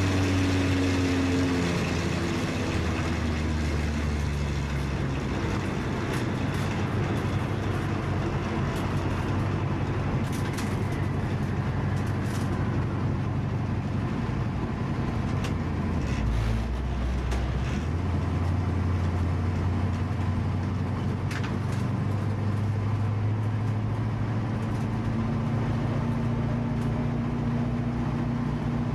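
Mustang's 351 Windsor V8 running at low, steady revs, its pitch falling away at the start and dipping briefly about sixteen seconds in.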